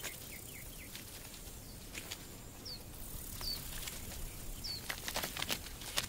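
Faint outdoor ambience with a small bird repeating a short, high, falling chirp about once a second from about halfway through, and a few soft clicks and scrapes around two and five seconds in.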